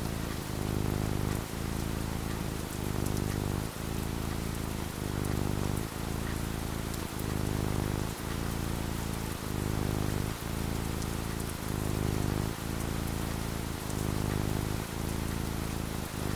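Steady rain falling, with a low hum underneath that swells and dips about once a second.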